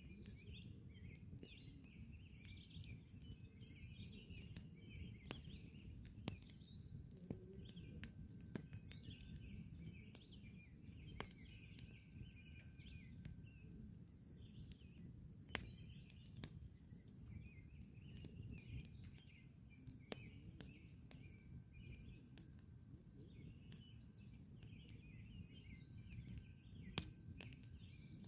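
Campfire crackling, with scattered sharp pops over a low steady rumble, while small birds chirp and twitter throughout.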